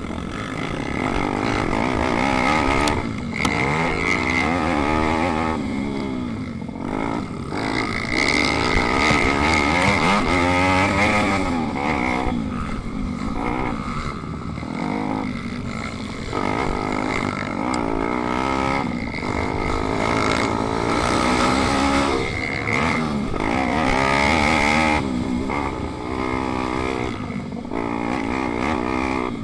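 Single-cylinder pit bike engine racing, revving up hard and dropping back again and again as it accelerates out of corners and slows for the next.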